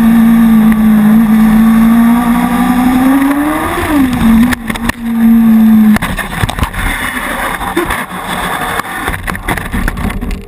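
A motorcycle engine down on its side after a lowside crash, running at a steady high rev. The note rises briefly just before four seconds in, then cuts out abruptly at about six seconds. After that there are irregular knocks and a rushing, rustling noise.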